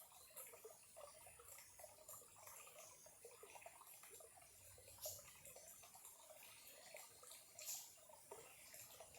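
Small clear stream trickling faintly, with two sharper splashes, about five seconds in and again near eight seconds.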